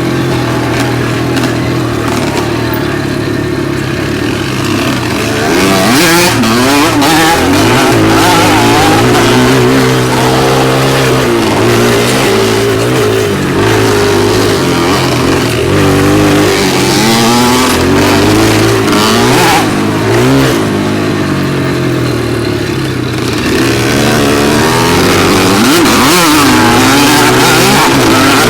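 Dirt bike engine revving hard as it rides, its pitch repeatedly climbing and dropping as the throttle opens and closes. It gets louder about six seconds in.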